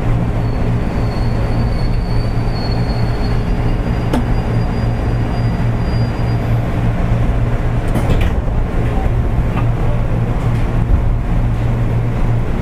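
Running noise inside a JR East 205 series electric train, heard near the end of a car: a steady low rumble of motors and wheels on the rails. A faint high squeal of the wheels runs through the first half, and a short burst of noise comes about eight seconds in.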